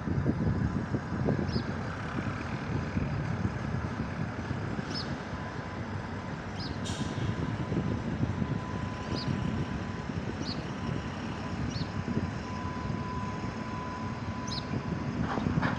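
Steady low rumble of a freight train hauled by a WAP-7 electric locomotive moving slowly past in the distance. A faint steady whine comes in for several seconds in the middle, and short high chirps sound every second or two.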